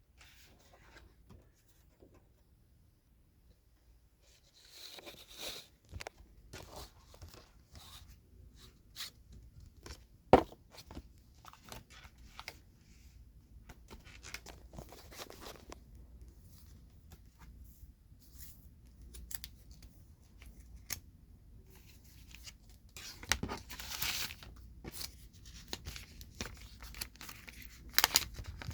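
Hands handling large Pokémon cards and their plastic packaging, close up: scattered taps, rustles and crinkles, with one sharp click about ten seconds in and busier rustling near the end.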